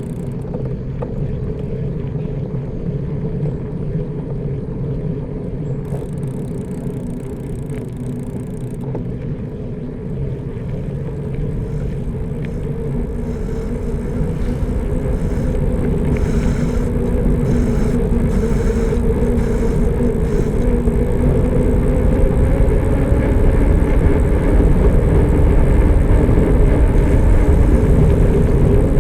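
Riding noise on a village road: a steady low rumble with a humming drone, growing louder over the second half, as wind and road noise build on the microphone.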